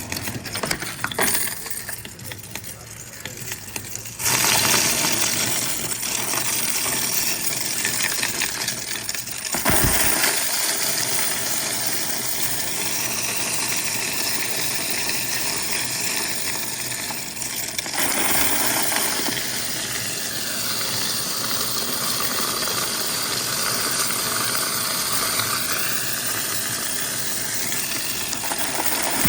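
Quarters clinking for a few seconds, then from about four seconds in a steady, dense clatter of coins running through a coin-counting machine. There is a brief low thump about ten seconds in.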